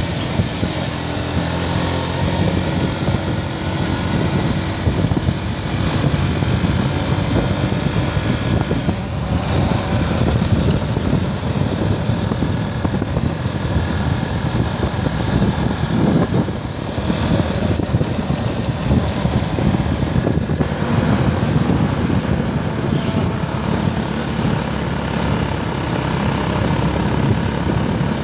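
Motorcycle running steadily at road speed.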